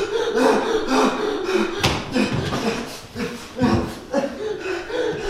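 Indistinct voices, with a sharp knock about two seconds in.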